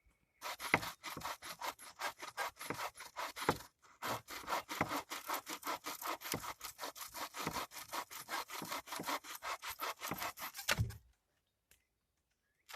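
Wood being sawn by hand in quick, even back-and-forth strokes, about four a second, with a short pause a few seconds in. The sawing stops about two seconds before the end.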